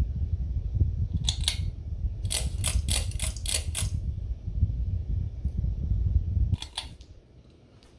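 Low rumble of air from the running ceiling fan buffeting the microphone, with a run of sharp mechanical clicks about two to four seconds in. The rumble cuts off suddenly near the end, just after another click.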